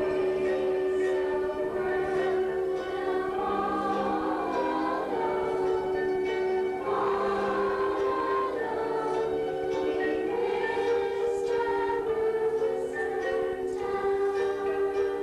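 Youth choir singing with musical accompaniment, held chords and moving melodic lines.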